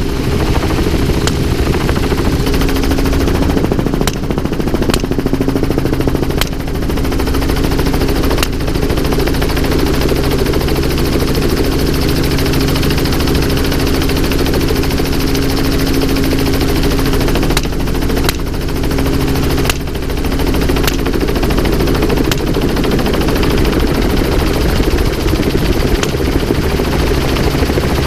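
Helicopter engine and rotor running steadily and loudly, with repeated gunshots fired at irregular intervals.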